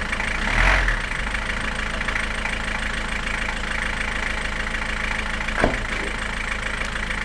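Exhaust of a Fiat Punto mk1 TD turbodiesel on its stock silencer, idling steadily. It swells briefly less than a second in, and a single sharp knock sounds about five and a half seconds in.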